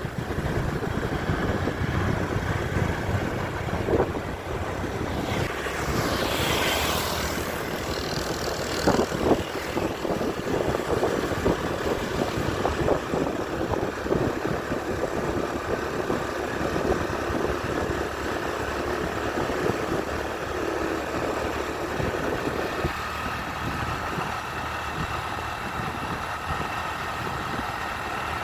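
Motor vehicle engine running steadily with road noise, a brief whoosh about six seconds in and a few short knocks.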